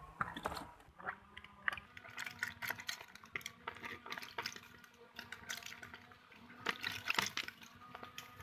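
Water dripping and splashing, with irregular small clicks and knocks of parts being handled.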